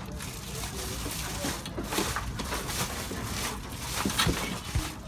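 Broiler chickens clucking in their house, short calls over a constant scraping and rustling of litter.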